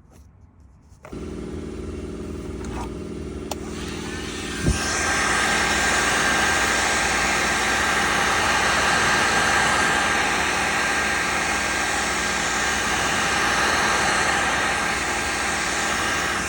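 Heat gun switched on about a second in, its fan blowing steadily; after a click a few seconds later it runs louder, a steady rush with a faint whine, as it heats heat-cure vinyl filler compound.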